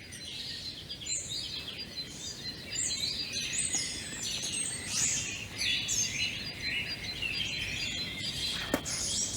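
Several songbirds singing at once: many short overlapping chirps and trills, with a brief sharp click near the end.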